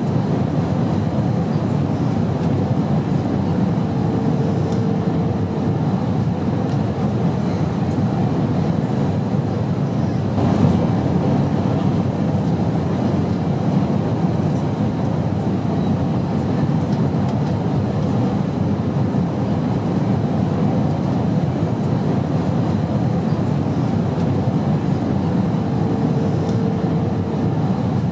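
Steady airplane drone: even, low rumbling engine and air noise that holds constant, with a brief slight swell about ten seconds in and a faint short hum twice.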